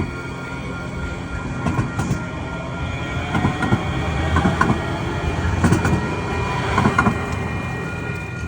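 A passenger train running past, its wheels clicking over rail joints in groups about a second apart. The sound grows louder toward the middle.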